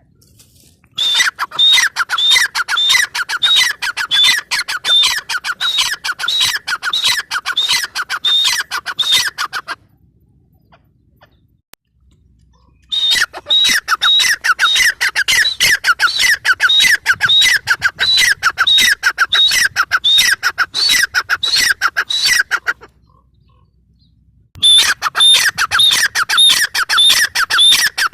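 Grey francolin (teetar) calling: long bouts of rapid, repeated calls, broken twice by pauses of about two to three seconds.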